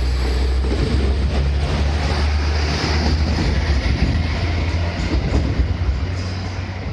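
Koleje Dolnośląskie passenger multiple unit running past close alongside the platform and pulling away: a steady low rumble that grows fainter near the end.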